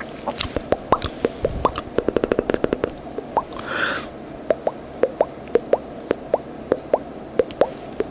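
Close-miked wet mouth pops from the lips and tongue, a string of short plops that each rise slightly in pitch, with a fast run of them about two and a half seconds in. A brief breathy hiss comes near the middle.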